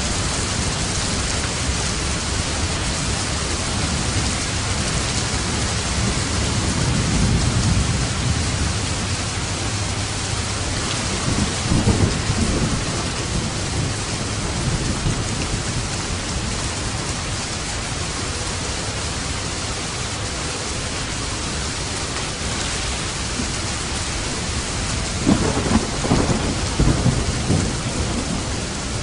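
Steady heavy rain with thunder rumbling low several times: about 7 seconds in, again around 12 seconds, and a stronger run of rumbles near the end.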